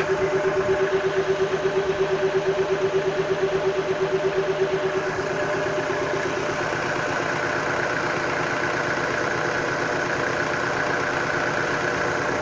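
Nissan March's CR14-DE 1.4-litre four-cylinder petrol engine idling evenly, its revs not hunting, a sign of a healthy engine. The hum pulses quickly and evenly for the first few seconds, then settles to a smoother tone about five seconds in.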